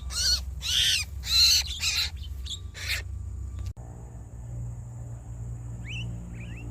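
Loud, harsh bird calls repeating for about three seconds, then cutting off abruptly. A low steady hum follows, with two faint short chirps near the end.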